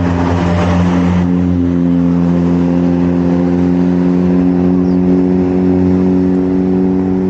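An engine running steadily at a constant pitch, with a hissy layer that drops away about a second in.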